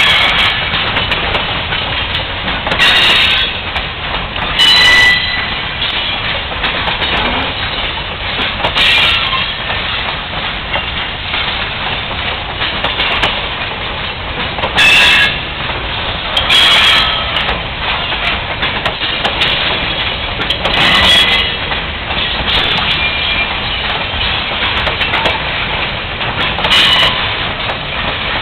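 James E. Strates Shows carnival train of loaded flatcars and passenger coaches rolling past close by: a steady rumble and rattle of wheels on rail. Every few seconds a brief louder clank or screech breaks through, some with a high wheel squeal.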